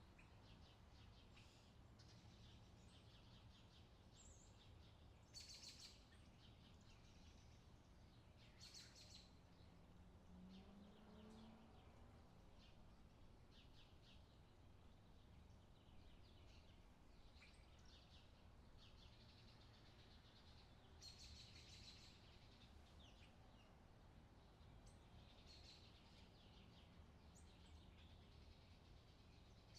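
Very faint outdoor summer ambience: scattered bird chirps over a low steady rumble, with a few louder chirps along the way.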